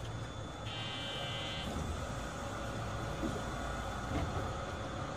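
Inside an Astram Line 6000-series rubber-tyred people-mover car: steady running noise, with a brief high tone from just under a second in to nearly two seconds in.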